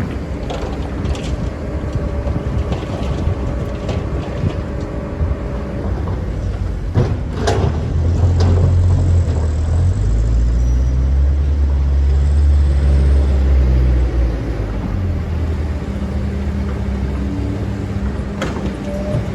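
Excavator's diesel engine running, pulling harder and louder with a deeper drone from about seven seconds in until about fourteen seconds, then easing back. A sharp knock sounds about seven seconds in and another near the end.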